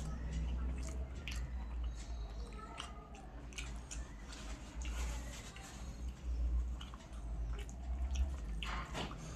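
A person chewing and eating close to the microphone, with irregular wet mouth clicks, over a steady low hum.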